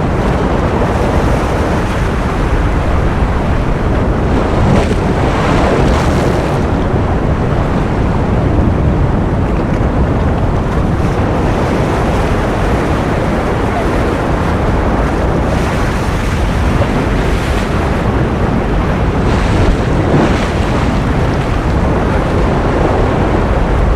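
Ocean surf as a continuous, loud wash of noise, heaviest in the low rumble, with slight swells and no distinct breaks.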